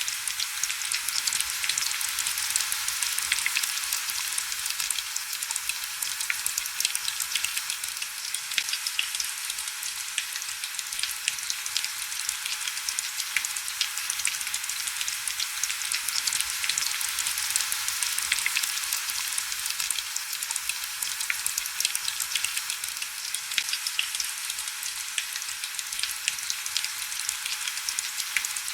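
Steady heavy rain, a dense hiss studded with countless sharp little drop ticks, thin and with no low rumble.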